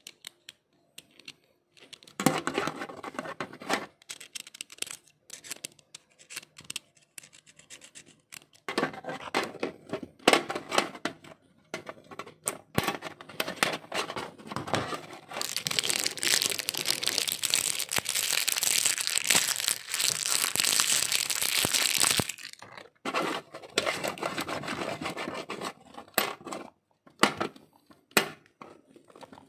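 Hand-handled plastic material rustling, crinkling and tearing in irregular spurts, with a longer, denser tearing rustle from about halfway through to about three quarters through.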